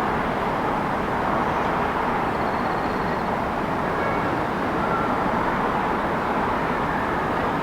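City street ambience: a steady wash of traffic noise at an even level, with a few faint, brief high-pitched notes over it.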